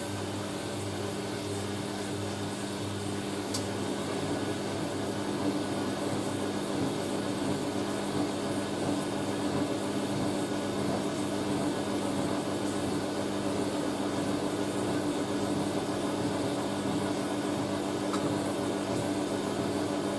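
Hoover A3060 Electronic 1100 washing machine running its drum in a long load-distribute before spinning, with a steady motor hum that grows a little louder a few seconds in. The long distribute is the machine trying to balance a load that looks a little out of balance.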